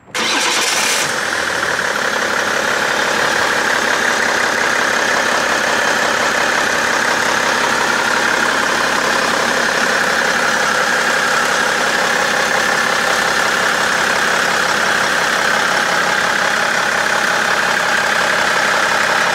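BMW E60 5 Series diesel engine idling steadily, presented so its running can be judged for rough or extraneous noises.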